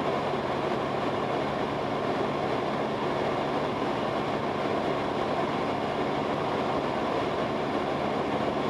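Steady cabin drone of a 2001 Cessna 172S in flight, its four-cylinder Lycoming engine and propeller running evenly at a constant power setting.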